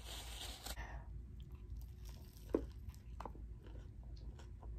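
Close-miked chewing and mouth sounds of someone eating, with soft crunches and small wet clicks, after a brief noisy rustle in the first second.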